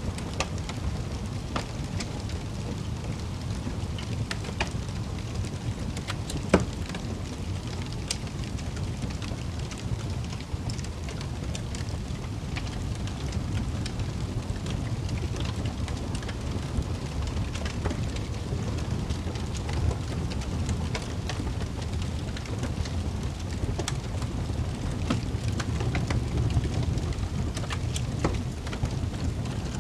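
Wood fire burning in a fireplace: a steady low rumble with scattered crackles and pops, one louder pop about six and a half seconds in.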